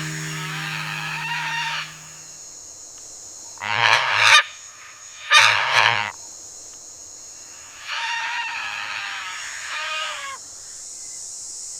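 Birds calling, with warbling calls near the start and again later, and two loud, harsh calls about four and five and a half seconds in, over a steady high-pitched hiss.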